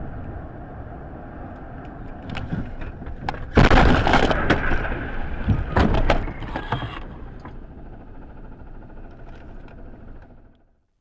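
Car crash recorded by a dashcam: steady road noise, then a loud collision about three and a half seconds in, followed by a few seconds of crunching and breaking. Road noise then continues until it cuts off shortly before the end.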